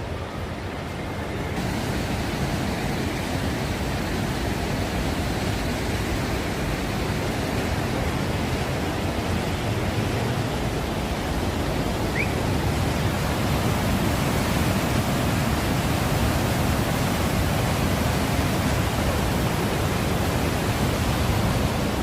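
Waterfall's rushing water: a loud, steady, even rush that grows fuller and brighter about a second and a half in.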